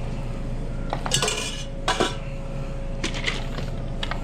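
Dishes and metal kitchen utensils clinking and clattering, with sharp ringing clanks about one, two and three seconds in, over a steady hum.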